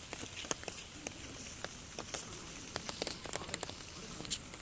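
Rain falling, with irregular drops ticking sharply close by over a steady hiss.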